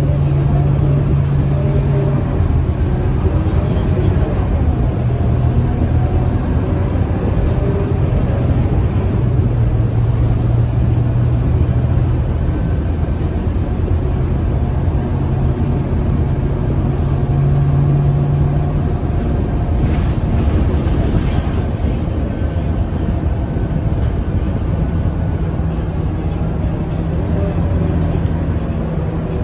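Scania K230UB city bus diesel engine running while the bus is under way, its drone stepping up and down in pitch several times as it speeds up and slows. A short hiss comes about twenty seconds in.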